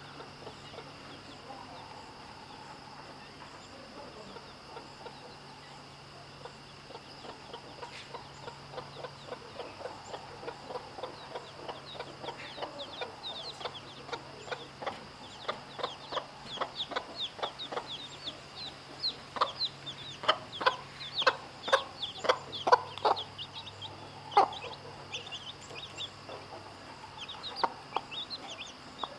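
Mother hen clucking in quick short calls, soft at first and growing louder through the middle, with her chicks peeping high and thin over the clucks.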